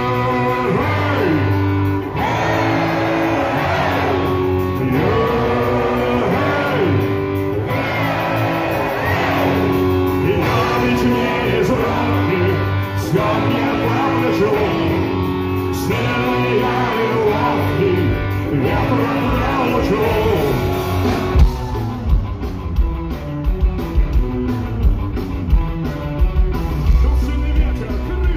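Live rock band playing, with sustained melodic lines and singing; about twenty seconds in, hard, regular drum hits come in.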